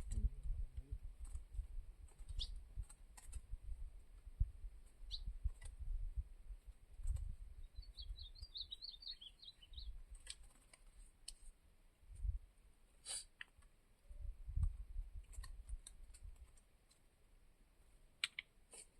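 Small songbird chirping a few times, with a quick twittering phrase about eight seconds in. Frequent low thumps and clicks run through it.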